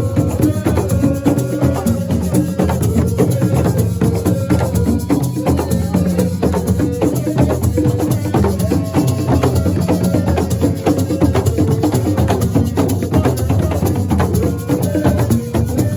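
Live assiko music: dense, driving percussion with sharp wood-block-like strokes and shaker rattles, with held pitched notes over the rhythm.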